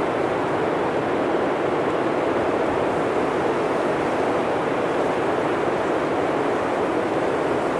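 Blizzard wind blowing steadily, a dense, even rushing noise with no gusts or breaks.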